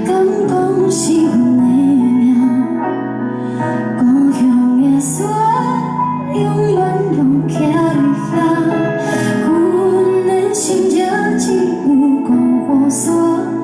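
A woman singing a melody with instrumental accompaniment of sustained chords and a light percussion beat.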